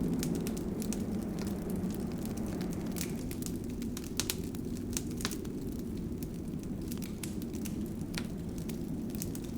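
Wood fire burning in a fireplace: a steady low rumble of flame with frequent sharp crackles and pops scattered irregularly throughout.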